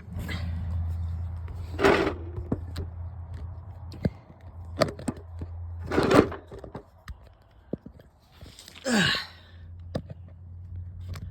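Pickup truck engine idling, a steady low hum, with several sharp thuds and knocks breaking through: about two, six and nine seconds in.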